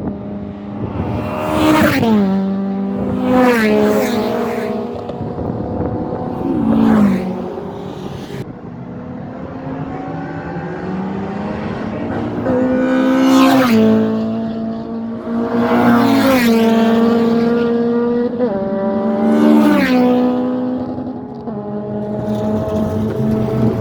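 Honda track cars driving past one after another at speed. Each engine note drops in pitch as the car goes by, with about six passes a few seconds apart and a quieter lull in the middle.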